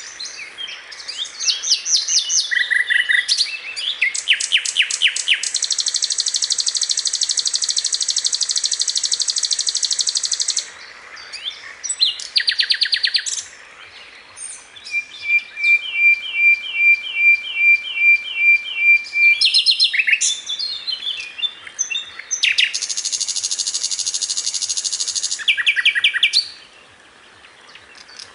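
Sikatan londo flycatcher singing a long, varied song of rapid trills and chirps. About five seconds in comes a long buzzy trill; from about fifteen seconds there is a run of repeated notes over a held whistle, with brief pauses between phrases.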